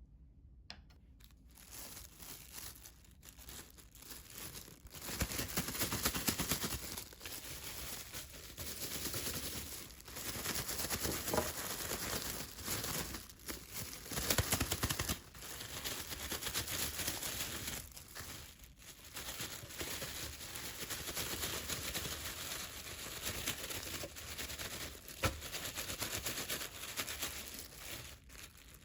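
Plastic bag crinkling and rustling in stretches of a few seconds as cut cucumbers are kneaded inside it with salt, sugar, vinegar and mustard powder.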